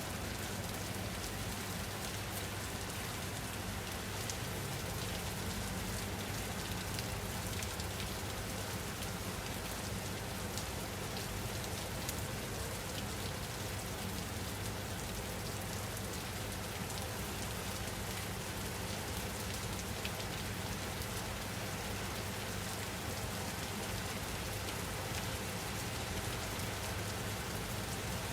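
Steady rain falling on a surface: a dense, even hiss with scattered faint drop ticks.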